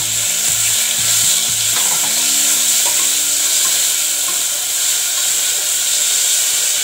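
Onions and freshly added tomato slices frying in hot oil in a pot, stirred with a wooden spoon: a loud, steady, high sizzling hiss.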